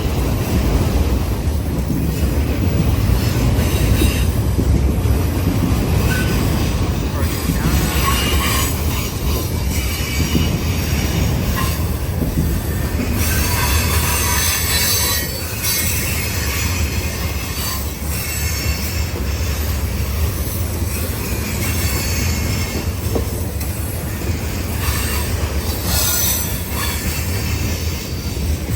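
Train rolling past, its cars making a steady low rumble on the rails, with high-pitched steel wheel squeal coming and going several times.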